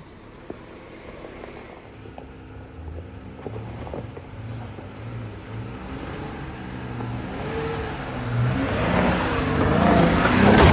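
Jeep Comanche pickup's engine pulling under throttle off-road, growing steadily louder, with a rush of tyre and trail noise building up to a loud jolt near the end as the truck bounces.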